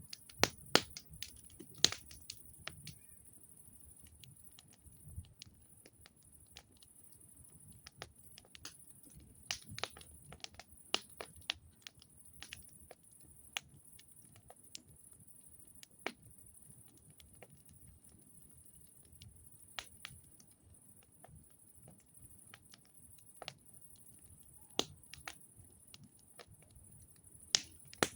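Wood campfire crackling, with irregular sharp pops and snaps over a quiet background, a few louder pops clustered near the start, midway and near the end.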